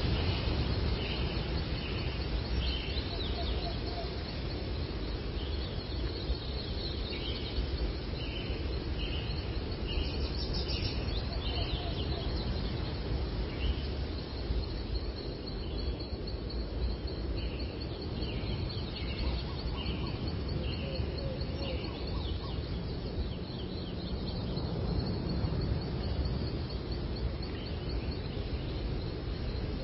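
Birds singing: a short note repeated in runs of several, coming in spells, over a steady low background rumble.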